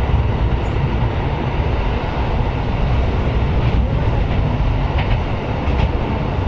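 KiHa 125 diesel railcar running, a steady rumble of engine and wheels on rail, with a few faint clicks in the second half.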